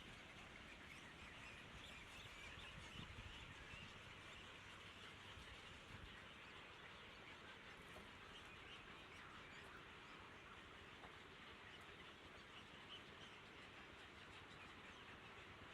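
Faint steady outdoor ambience with thin, scattered bird chirping, close to silence.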